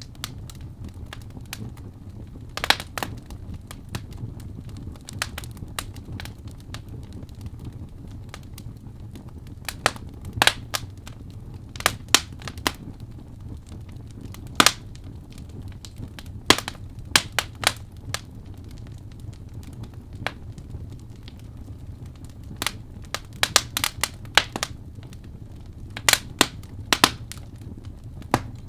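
Wood fire crackling in a fireplace: irregular sharp pops and snaps, sometimes in quick clusters, over a steady low rumble.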